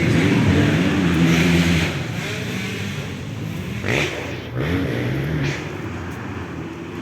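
250cc motocross bike engines revving on the track. Louder for the first two seconds, then they fall back, with short rising revs near the middle.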